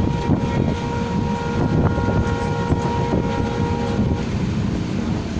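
Nilsagar Express passenger train running, with a steady rumble and irregular wheel knocks, while a train horn sounds and cuts off about four seconds in.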